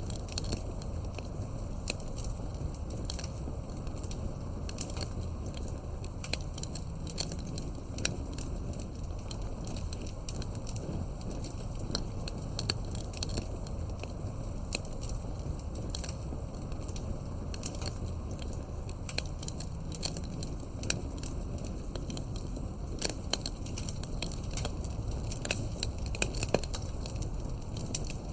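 Wood campfire burning and crackling, with frequent irregular sharp pops and snaps over a steady low rush of flame.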